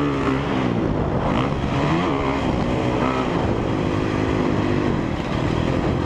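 2017 Honda CRF450R's single-cylinder four-stroke engine revving on a motocross ride over a jump, its pitch climbing and falling as the throttle is opened and chopped.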